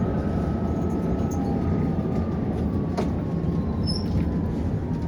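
Prague tram running on its rails: a steady low rumble of wheels and car body, with a thin motor whine that slowly falls in pitch. A single sharp click about three seconds in.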